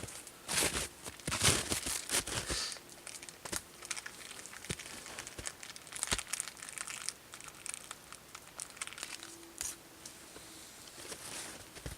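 Crinkling and rustling of something being handled, with irregular sharp clicks, busiest in the first two seconds or so and sparser after.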